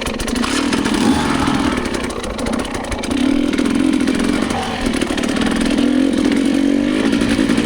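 Dirt bike engine running under load on a trail ride, its pitch rising and falling repeatedly as the throttle is worked.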